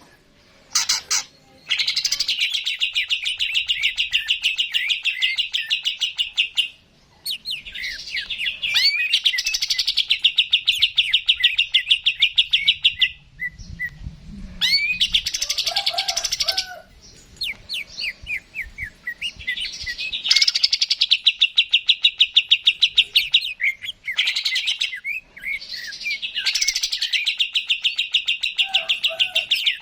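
Cucak ijo (greater green leafbird) singing in long, rapid, high trills of several seconds each, broken by short pauses and quick whistled notes. This is the loud, sustained 'gacor' song used to provoke other birds into singing.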